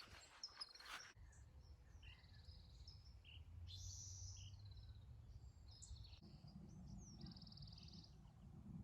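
Faint songbirds chirping, with a couple of short trills, over a low rumble.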